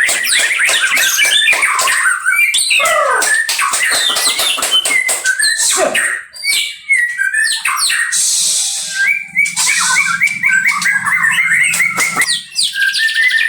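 Songbirds singing loudly in a dense, unbroken run of rapid chirps, whistles and trills.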